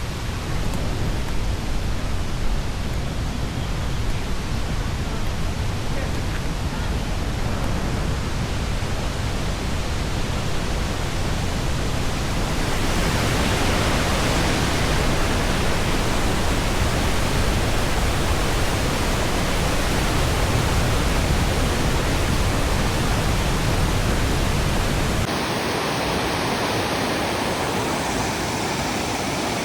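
Steady rushing roar of the Ouzoud waterfalls, a dense water noise that grows brighter about halfway through and loses its deep rumble near the end.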